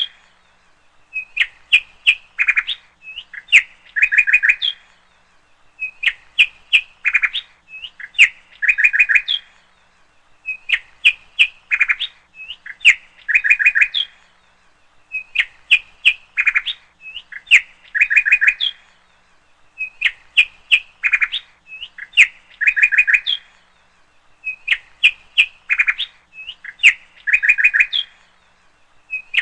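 Bird chirping in short bursts of rapid chirps, a burst about every two seconds in a steady repeating pattern.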